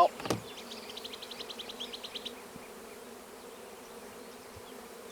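Honey bees buzzing around a newly installed hive, a steady hum, as the last of the package bees find their way in. A single sharp knock comes just after the start, and a brief rapid high ticking sounds about a second in.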